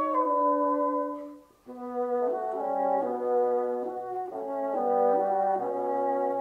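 Classical background music played on bassoon: several wind voices hold slow sustained chords. About a second and a half in, the music breaks off briefly, then resumes.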